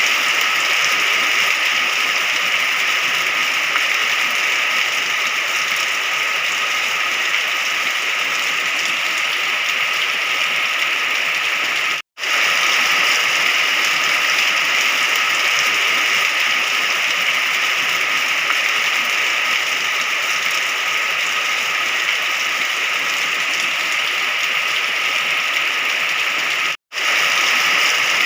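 Steady, dense hiss of heavy rain, cutting out completely for a split second twice, about 12 seconds and 27 seconds in.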